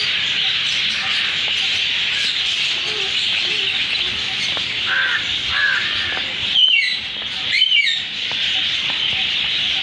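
Dense chorus of many small birds chirping together, as in a zoo aviary. A few short calls break through around the middle, and a louder bird twice gives a quick run of notes falling in pitch, about a second apart.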